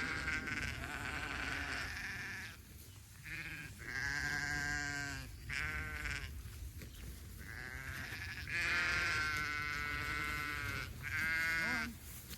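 Sheep bleating repeatedly: several long, drawn-out bleats from the flock, with short pauses between them.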